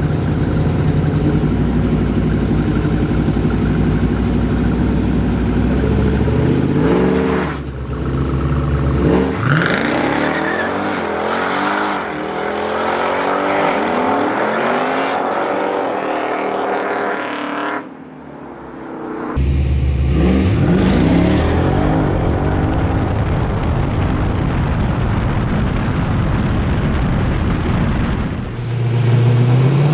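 Loud V8 street-race car engines: a steady rumble at first, then revving and accelerating hard with the pitch sweeping up and falling away several times. The sound briefly drops away about eighteen seconds in before an engine picks up again, rising once more near the end.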